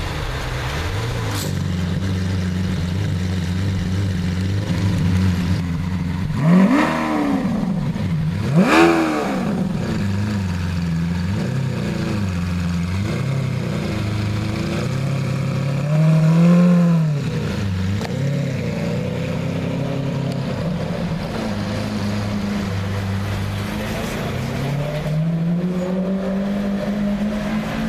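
Lamborghini Aventador LP700-4's V12 engine idling with throttle blips: two sharp revs about a quarter of the way in, a longer rev a little past halfway, smaller blips in between, and a slow climb in revs near the end.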